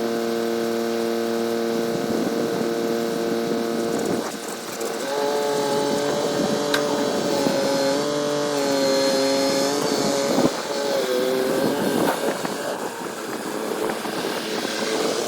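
Tractor engine running steadily, then changing speed, its pitch wavering up and down from about five seconds in, as if under changing load.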